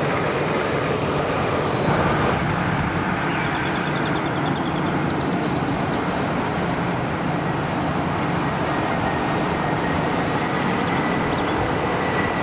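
Steady, loud engine roar with no clear rise or fall, and faint high chirps partway through.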